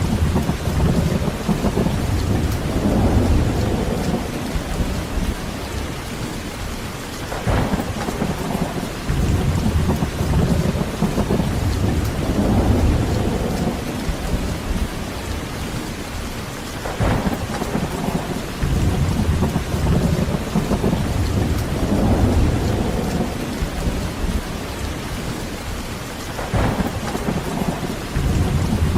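Heavy rain falling steadily with rolling thunder. Low rumbles swell and fade every nine seconds or so, each with a short sharper crack.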